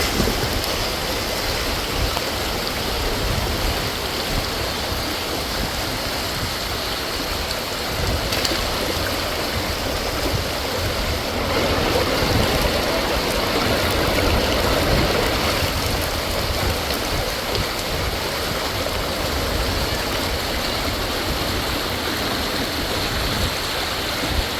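Floodwater rushing in a steady, unbroken stream of running-water noise, from a torrent swollen by heavy storm rain.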